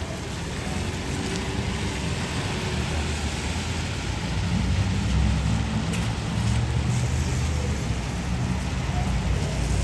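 Street traffic: a steady hiss with a vehicle's low engine rumble that swells about four and a half seconds in.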